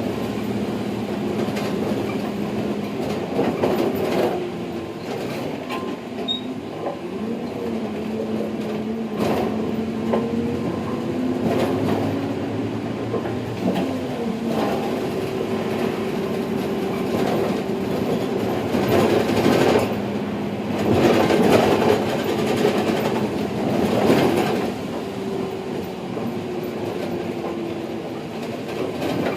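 Mitsubishi Fuso Aero Star city bus's diesel engine heard from inside the cabin as it drives: the engine note rises under acceleration, drops at gear changes, then holds steady while cruising and falls away near the end. Occasional knocks and rattles from the bus body over the road.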